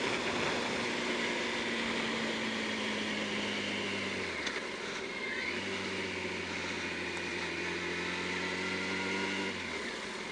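Yamaha R1 inline-four motorcycle engine running at a steady note while riding, with wind rush over it. The note drops away about four seconds in, comes back steady from about five and a half seconds, and drops off again near the end.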